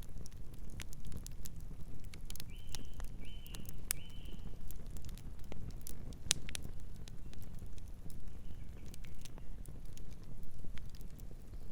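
Campfire crackling, with frequent sharp pops and snaps over a steady low rumble. A bird calls three times in quick succession a few seconds in, and once more faintly later.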